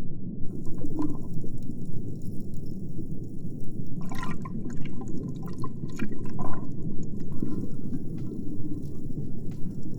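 Water heard underwater: a steady low rumbling wash with scattered clicks and crackles, and a stretch of bubbling from about four to seven seconds in.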